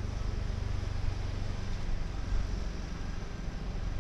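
Street traffic: a steady rumble of passing vehicles.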